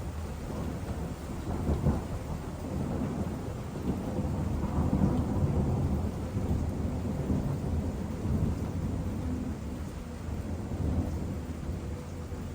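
Long roll of thunder: a low rumble that begins suddenly, swells twice in the first half and slowly dies down.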